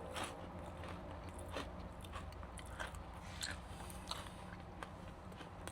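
A person chewing a crunchy Nature Valley peanut butter biscuit bar, with small crisp crunches at irregular intervals.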